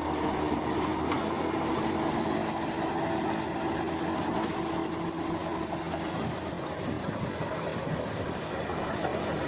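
Crawler bulldozer at work: its diesel engine runs steadily under a continuous mechanical clatter, with a held tone that fades out about six seconds in.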